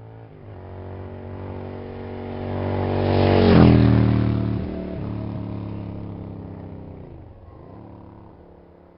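Motocross bike engine at high revs, approaching, passing close by with its pitch dropping, then fading away. The engine is loudest about three and a half seconds in, and near the end the revs dip briefly and pick up again.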